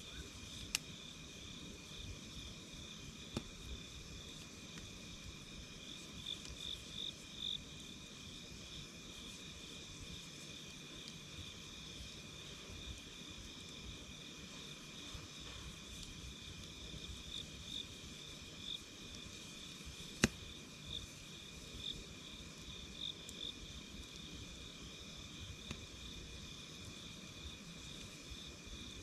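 Crickets and other night insects trilling steadily in two high, overlapping chorus lines, one of them pulsing. A crackling wood campfire adds a few sharp pops, the loudest about twenty seconds in.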